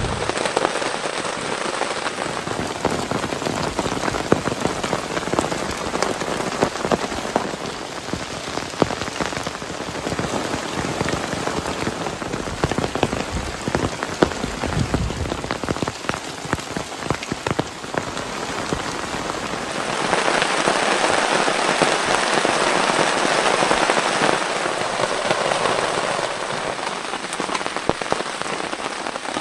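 Heavy rain falling, with many separate drops striking a surface; the rain grows louder about twenty seconds in.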